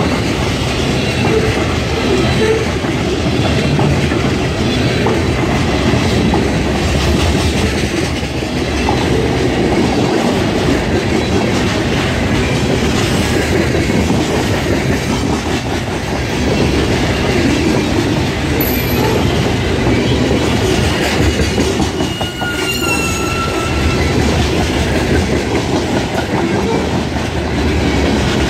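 Freight train of open-top hopper cars rolling past at close range: a loud, steady rumble of steel wheels on rail. A brief faint wheel squeal comes about three-quarters of the way through.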